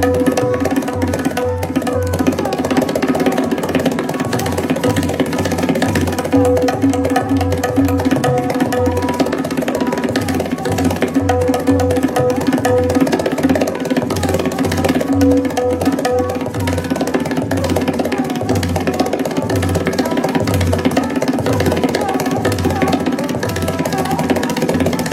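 Tabla solo: fast, steady strokes on the low bass drum and the tuned treble drum, played to imitate a train running on rails.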